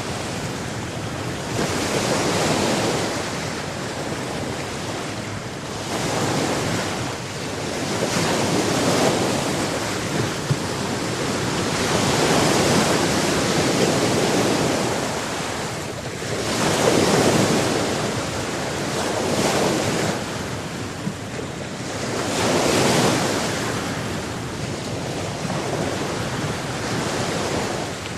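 Sea waves washing onto the shore, the surf swelling and falling every few seconds, with wind on the microphone.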